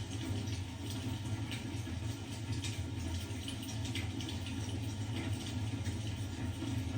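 Fire crackling in a fireplace: a steady rushing hiss with a few sharp pops scattered through it.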